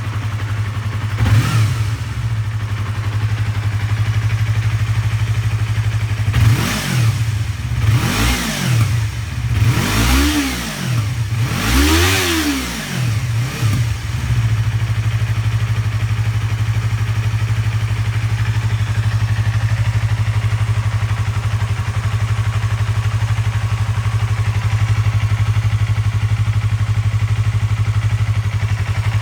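Yamaha YZF-R25's 250 cc parallel-twin engine breathing through a WR'S titanium aftermarket exhaust, idling steadily, then blipped several times in a row, each rev rising and falling, before it settles back to a steady idle.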